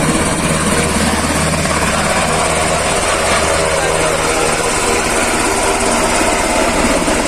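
Helicopter running steadily, a constant loud engine and rotor drone.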